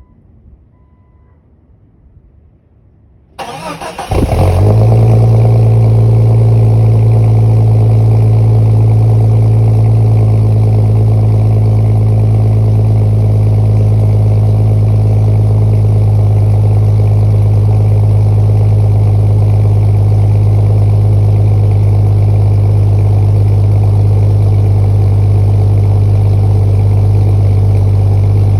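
Jeep Cherokee XJ cold-started in freezing weather through its new exhaust. After a few faint beeps, the starter cranks for about a second. The engine catches about four seconds in and settles into a loud, steady idle with a low, even exhaust note.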